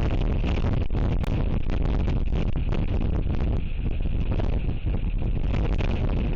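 Strong wind buffeting the outdoor camera microphone: a loud, steady low rumble with gusty flutter.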